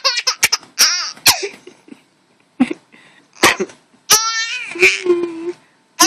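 Baby laughing in short bursts and high squeals, mixed with sharp clicking pops.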